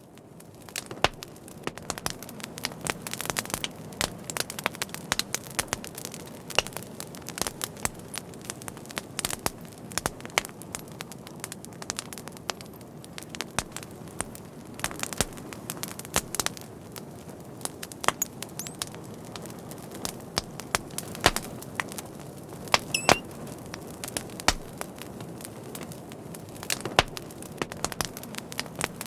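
Fire crackling: frequent sharp pops and snaps over a steady hiss. A brief wavering high whistle comes about two-thirds of the way through.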